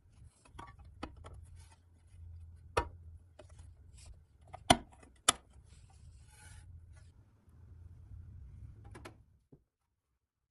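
Hand work on small parts: rubbing and scattered clicks, with three sharp taps near the middle, over a steady low hum. It cuts off suddenly near the end.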